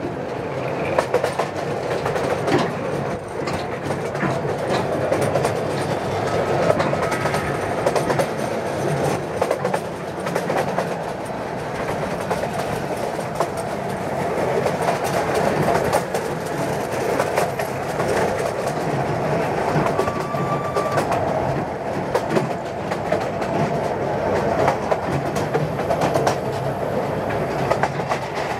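Narrow-gauge train running along its track, heard from an open passenger carriage: steady rumble of wheels on rail with a rapid clickety-clack. Two short high-pitched squeals come partway through.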